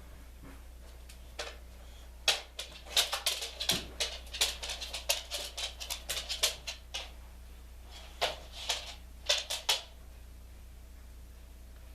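A fast, irregular run of sharp clicks and taps, dense for several seconds, then a short second cluster that stops about two seconds before the end.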